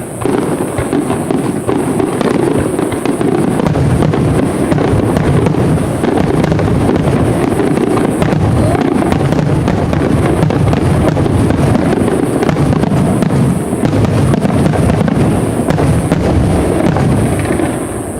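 Aerial fireworks going off in a dense, continuous barrage: many overlapping booms and cracking bursts with no gap between them, easing slightly near the end.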